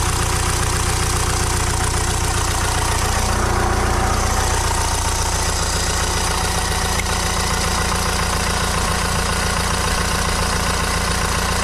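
Car engine idling steadily under the open hood, just after a cold start at high altitude, with no valve ticking. The owner puts the earlier ticking down to oil not having reached the valvetrain.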